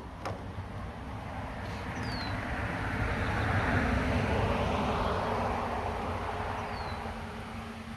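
A vehicle passing by: a broad rushing noise that swells to a peak midway and then fades away.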